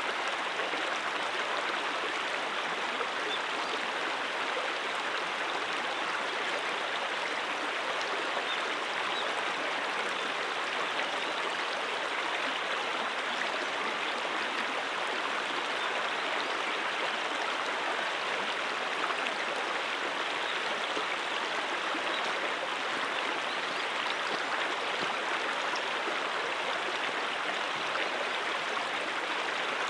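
Brook water flowing steadily over rocks, an even rushing and babbling with no breaks.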